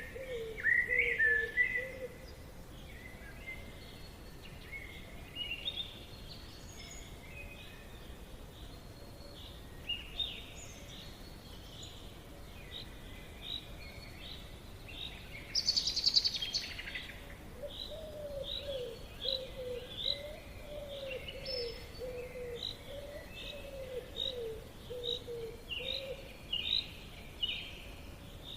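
Forest birds singing: many short chirps and repeated notes, with a loud burst of rapid chirping about halfway through. A lower warbling call comes in over the second half.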